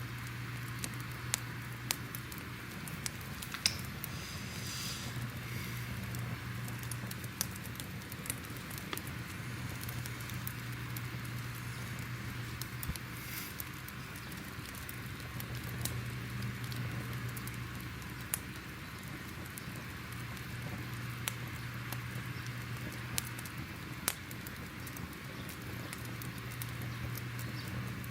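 Crackling fire: a steady hiss with scattered sharp pops and crackles and a low rumble that swells and fades every few seconds, with a brief high whistle about four seconds in.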